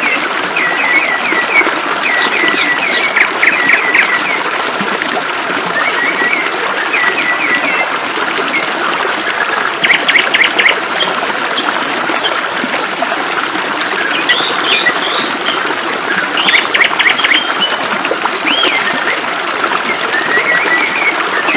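Several birds chirping and calling, with quick runs of repeated notes and some short trills, over the steady hiss of flowing water.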